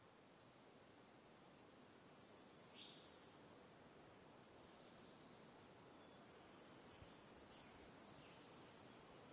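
Faint outdoor ambience with a steady hiss, broken twice by a bird's rapid high trill of about ten notes a second, each lasting about two seconds.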